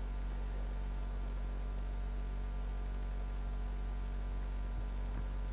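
Steady electrical mains hum with a constant hiss in the recording, with no change through the pause.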